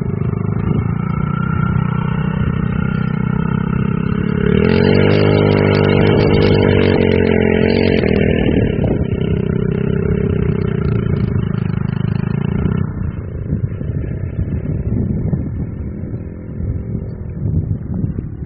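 Off-road vehicle engine running under throttle. The revs climb sharply about four and a half seconds in, hold high for a few seconds, then fall away near the thirteen-second mark, leaving a rougher, quieter rumble.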